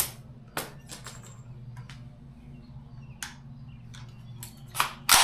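Gunfire from other shooting lanes: a handful of sharp reports at irregular spacing, the loudest pair near the end, over a steady low hum of range ventilation.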